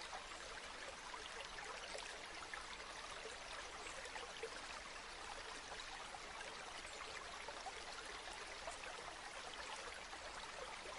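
River water flowing steadily, a continuous babbling with small splashes and trickles throughout.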